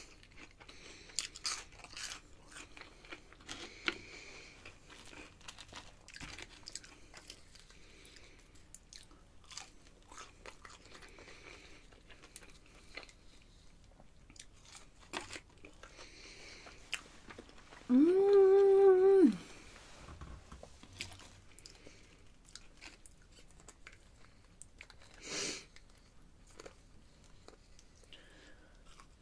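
Close-up chewing and crunching of crispy fries, in bite after bite. About two-thirds of the way through, a steady pitched vocal sound lasting about a second and a half is the loudest sound.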